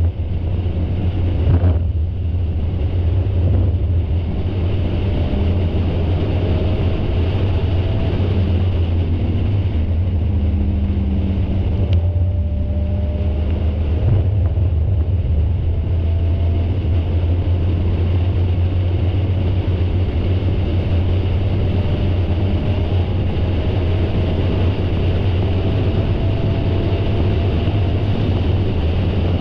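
Spec Miata race car's four-cylinder engine running hard at speed, recorded on board, with wind rush over the car. The engine pitch climbs slowly several times, with a brief drop about two seconds in.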